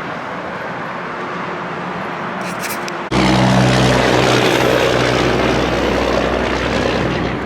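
A motor running steadily. About three seconds in, it cuts in suddenly much louder: a low, even drone under heavy rushing noise.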